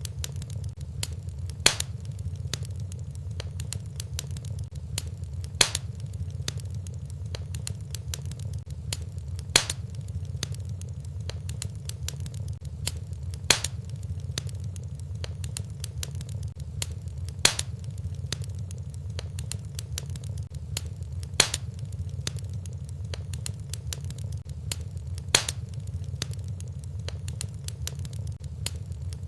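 Fireplace wood fire crackling over a steady low rumble, with many small snaps and a louder pop about every four seconds.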